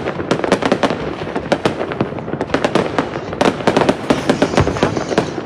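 Fireworks going off in rapid succession: a dense string of sharp cracks and bangs, several a second, with no let-up.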